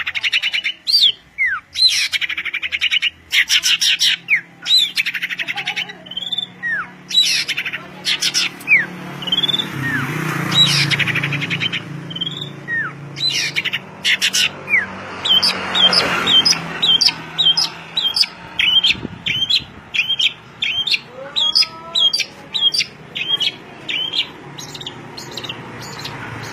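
Songbirds chirping and singing loudly in quick, sharp phrases. Near the end there is a fast run of short repeated notes.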